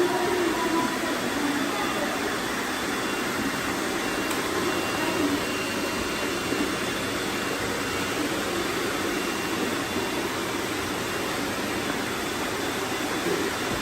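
Robot vacuum cleaners running: a steady whirring hiss with a faint high whine.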